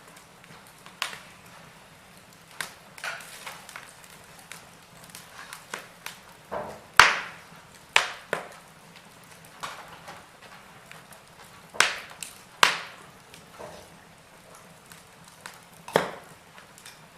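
Wood fire crackling in a fireplace: irregular sharp pops and snaps over a soft hiss, with a handful of louder cracks, the loudest about seven seconds in.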